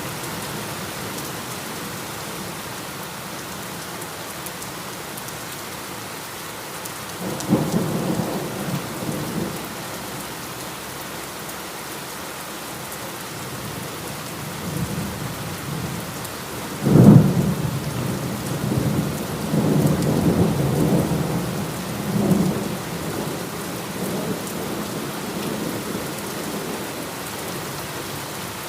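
Heavy rain falling steadily, with rolls of thunder: a short rumble about a quarter of the way in, then a sharper, louder clap about halfway through that rumbles on in several swells before fading back to the rain.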